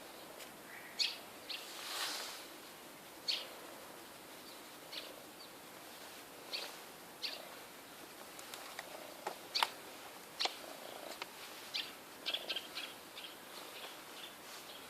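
Small birds chirping in short, scattered calls, more often in the second half, over a faint steady background.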